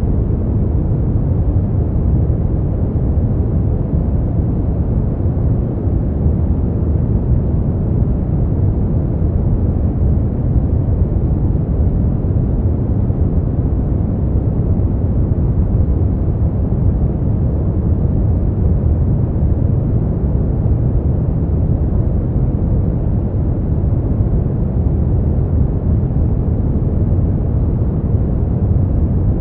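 Steady, unchanging brown noise: a deep, even rushing hiss with most of its weight in the bass and no highs.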